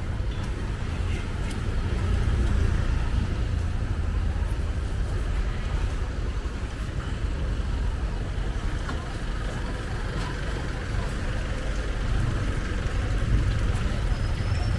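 City street ambience dominated by a steady low rumble of passing motor traffic, with faint voices in the background.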